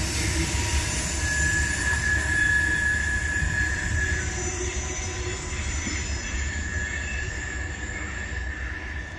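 Rear of a freight train of tank cars rolling away over the rails: a steady low rumble with steel wheels squealing in long, thin high tones, the whole sound fading as the cars recede.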